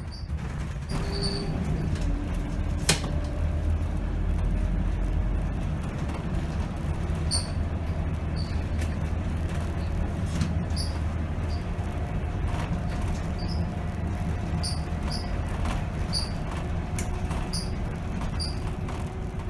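A 2010 Scania K270 city bus's diesel engine running as the bus drives, a steady low rumble. There is a sharp click about three seconds in, and from about a third of the way through, short high squeaks or rattles from the bus come roughly once a second.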